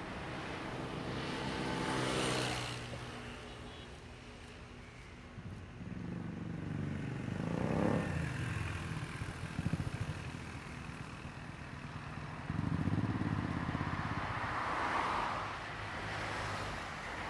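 Motor engines running and passing, with an engine note that rises and falls in pitch about halfway through and another engine swelling up later.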